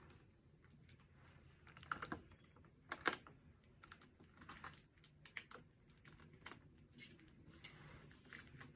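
Faint, scattered clicks and taps from small items being handled and set in place, with two more distinct clicks about two and three seconds in.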